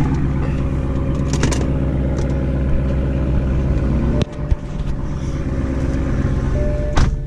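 Car engine idling steadily. About four seconds in a car door shuts with a single knock, and the idle sounds quieter and more muffled after it.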